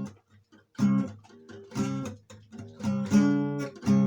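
Acoustic guitar strummed in chords with no singing: a few strong strums with lighter strokes between, in an instrumental gap of an unplugged song.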